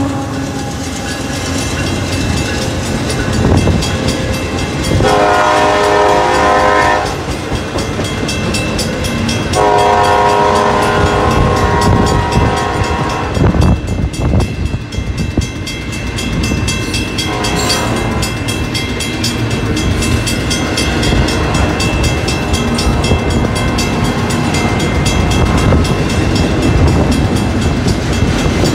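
Union Pacific double-stack intermodal train's container cars rolling past, wheels rumbling and clacking on the rails. A diesel locomotive horn sounds two blasts from up the line, a short one about five seconds in and a longer one about ten seconds in.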